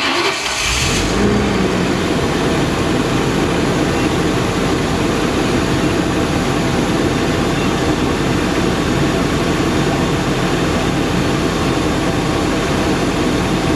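RV's gasoline engine starting at once when cranked, then idling steadily. It catches right away, just after a replacement cylinder 4 ignition coil was fitted.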